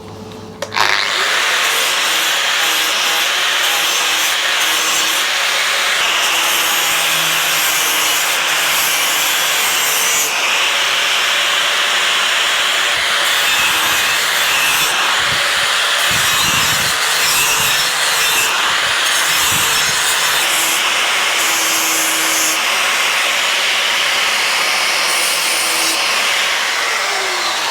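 A power grinder running an abrasive against the surfaces of a Royal Enfield cylinder head, giving a loud, steady scraping with a faint motor whine underneath. It starts about a second in, and near the end the whine drops in pitch.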